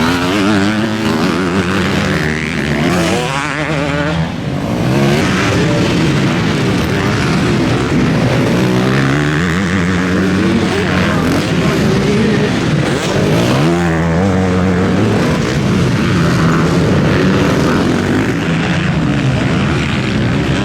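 Several motocross bikes racing past, their engines revving up and dropping back again and again through gear changes and throttle on and off.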